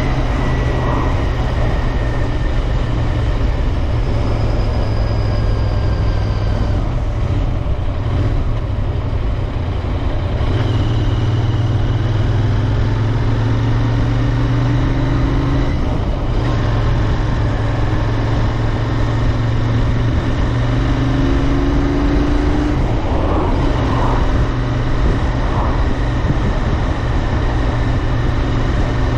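Royal Enfield Interceptor 650's 648 cc parallel-twin engine running at a steady cruise under way, with wind and road noise. The engine eases off briefly about a third of the way in and dips again around the middle.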